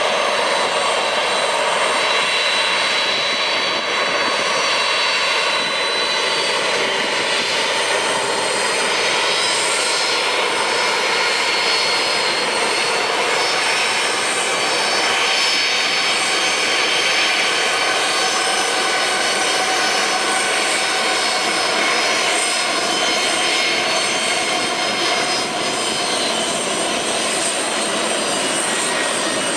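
Boeing 747-400 freighter's jet engines running steadily, a constant rush with a whine of several high tones that drift slightly in pitch.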